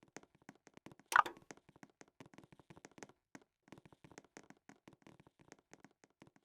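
Faint, rapid clicking and scratching of hamsters moving about, with one louder knock about a second in.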